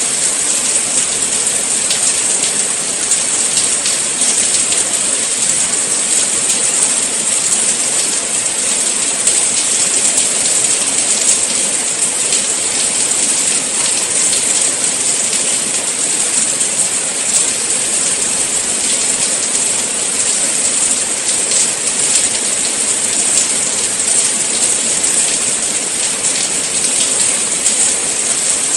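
Steady rain: an even, high hiss with faint scattered drop ticks through it.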